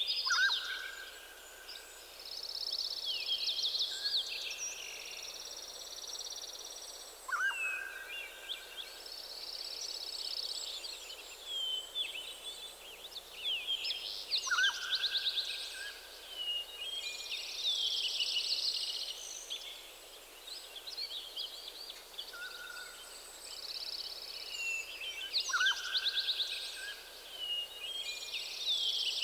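Several songbirds singing in a forest, with overlapping high, fast trills and warbles that follow one another without a break. One bird keeps repeating a shorter, lower phrase, a falling note that levels into a held whistle, about every seven seconds.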